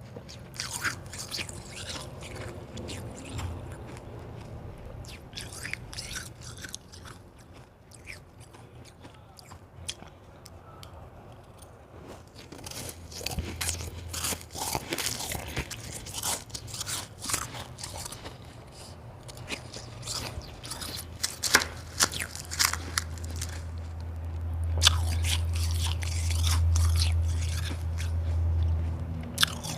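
Close-miked biting and chewing of hard white ice: crisp crunches in clusters, with a quieter stretch partway through. Near the end a low rumble rises under the crunching.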